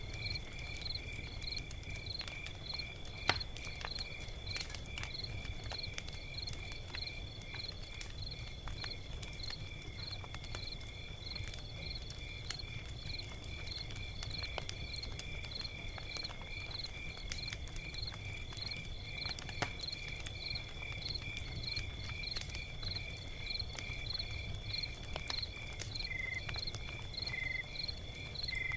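Log fire crackling with scattered sharp pops, the loudest about three seconds in, over a low rumble. Crickets chirp about twice a second alongside a steady high insect trill.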